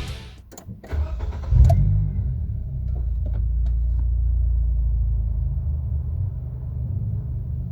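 A few clicks, then the 2014 Nissan March Nismo S's 1.5-litre four-cylinder engine, fitted with a Kakimoto Kai GT box 06&S aftermarket exhaust, starts about a second in. It flares briefly and then settles into a steady idle through the exhaust.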